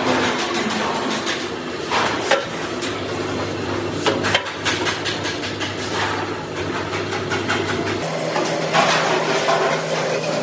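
Factory workshop noise: irregular metal knocks and clinks over a steady machine hum, which changes to a higher hum about eight seconds in.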